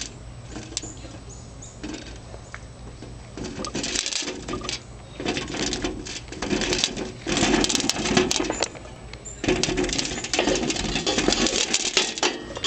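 A bird feeder with a trapped chickadee inside, rattling and clattering in irregular bursts over a faint steady hum. The bursts grow louder and longer from about four seconds in.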